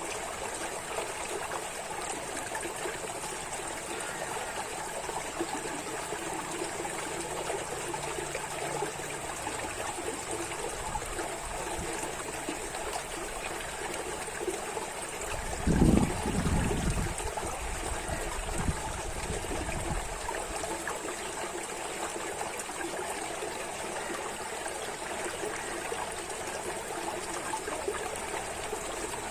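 Running water trickling and burbling steadily, like a small stream. A brief, louder low rumble comes a little over halfway through, with a weaker one a few seconds later.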